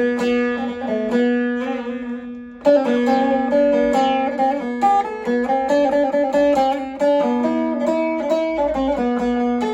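Double-necked saz being played: a plucked melody runs over a steady low drone note. The notes die away about two seconds in, and a loud new phrase starts shortly after.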